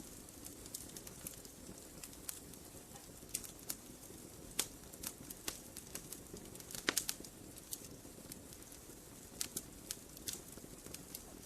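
Wood fire burning in a fireplace: irregular sharp crackles and pops over a steady low rumble of flames, with a quick cluster of louder pops about seven seconds in.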